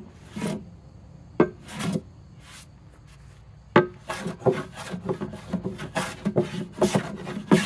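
No. 5 jack hand plane shaving wood against the grain, each stroke a short swish with a sharp start as the sole and blade bite the board. A few spaced strokes come first, then a quicker run of short strokes from about halfway through.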